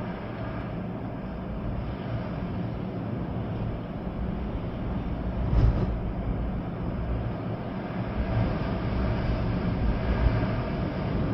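Storm wind gusting with rain, a steady rushing noise with a heavy low rumble of wind buffeting the microphone. A stronger gust swells briefly a little past halfway.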